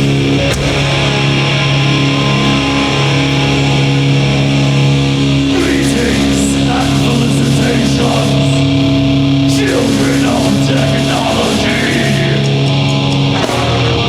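A live heavy metal band playing loud, with distorted electric guitar and bass holding low chords, and a voice shouting over the band from about six seconds in until near the end.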